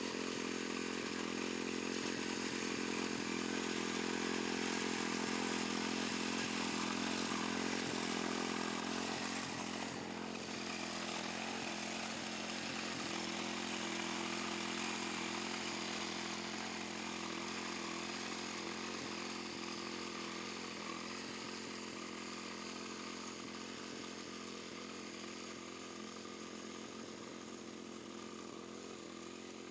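Tractor engine and wing mower running steadily while cutting grass, a continuous engine drone with blade and machine noise, growing slowly fainter in the second half.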